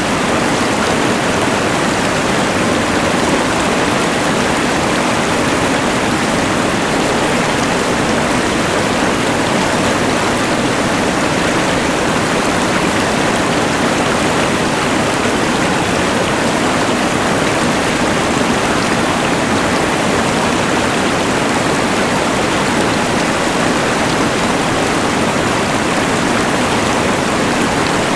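Rushing mountain river blended with the hiss of a LectroFan white noise machine: a loud, even, unbroken wash of noise with no changes.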